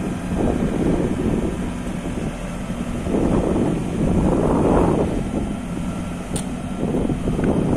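Case 695ST backhoe loader's diesel engine running with a steady hum. The sound swells in louder surges three times: briefly near the start, for a couple of seconds in the middle, and again near the end.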